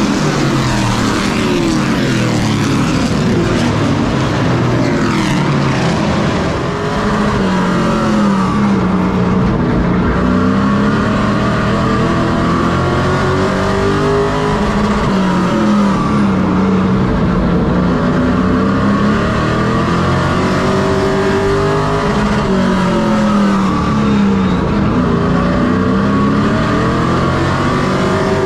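Race truck engine running at racing speed, its note dropping and climbing again about every six seconds as it lifts off for the turns and accelerates down the straights.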